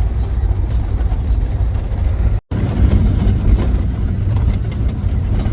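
Horses' hooves clip-clopping as the wagon train moves out, over a heavy low rumble. The sound cuts out completely for an instant a little before halfway through.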